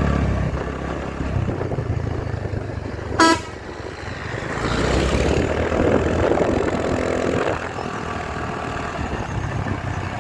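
A motor vehicle on the move, with steady low engine and road noise. About three seconds in, a vehicle horn gives one short, loud toot.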